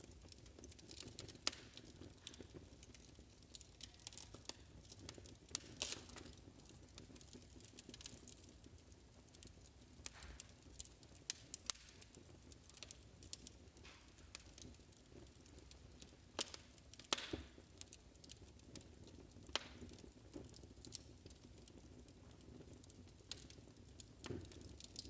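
Wood fire crackling in a fireplace: irregular snaps and pops, a few louder than the rest, over a soft low rumble.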